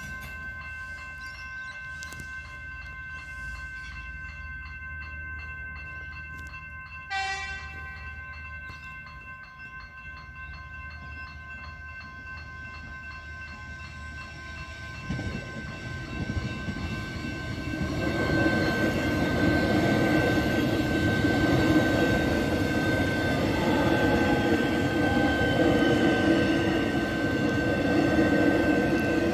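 Level crossing warning bells ring steadily with a brief horn note about seven seconds in. From about 15 seconds an X'Trapolis electric suburban train approaches, and its rumble through the crossing grows loud from about 18 seconds, with a falling whine partway through.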